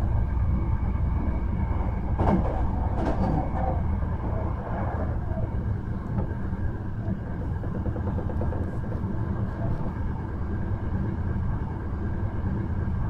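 Hankyu 1300 series electric commuter train heard from on board while running: a steady low rumble with faint steady hums, and a few sharp clicks about two and three seconds in.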